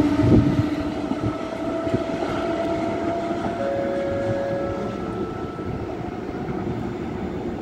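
Electric train rolling away along the tracks: a few wheel clicks at first, then a steady rumble with the whine of its electric drive held on a few steady tones.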